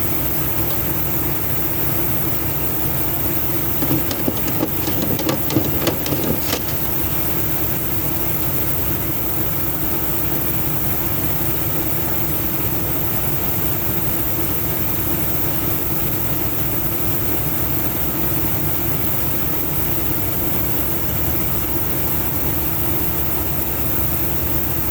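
Diesel semi-truck engine idling steadily, with a short run of clicks and knocks about four to six seconds in.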